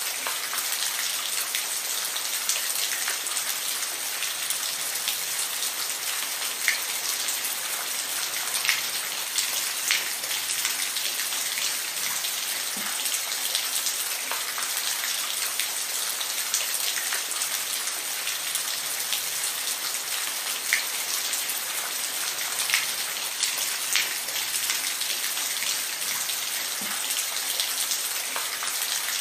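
Steady rain falling: an even hiss, with scattered louder drops ticking now and then.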